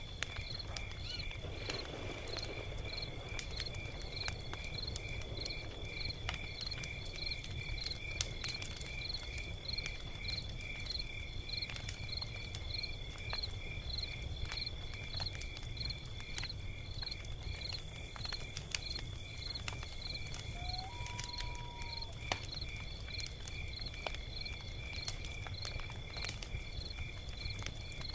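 Log fire crackling, with scattered sharp pops over a low steady rumble, while a cricket chirps steadily about twice a second. A brief high hiss comes about two-thirds of the way through.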